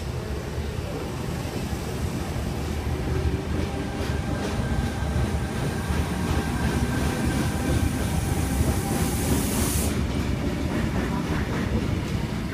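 Four-car Tangara electric train departing and running past along the platform: a steady rumble of wheels on rail with a faint steady whine, and a high hiss that drops away about ten seconds in as the train draws off.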